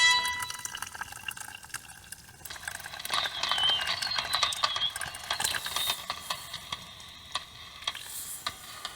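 Hot chocolate being made in a mug: liquid poured and stirred with a spoon, with many small clinks, starting about two and a half seconds in.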